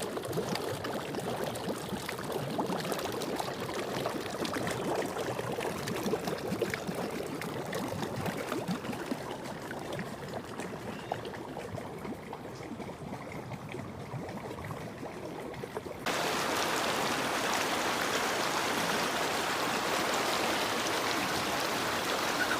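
Floodwater rushing steadily; about two-thirds of the way through it suddenly turns louder and hissier.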